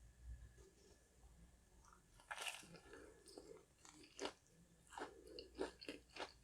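Close-up eating sounds of biting into and chewing a sandwich with a crispy fried flounder fish patty: one crunchy bite about two and a half seconds in, then crunching chews that come more often near the end.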